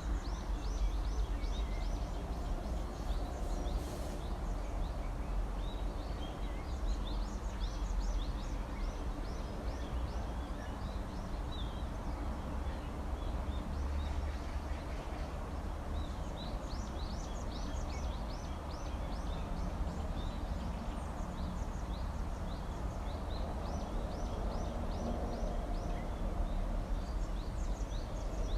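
Small songbirds chirping and singing, quick runs of short high chirps from several birds overlapping throughout, over a steady low rumble.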